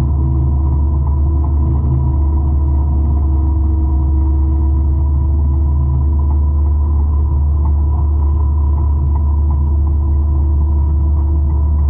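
A 200-horsepower forestry mulcher running: a loud, steady, deep engine drone with a few constant tones above it.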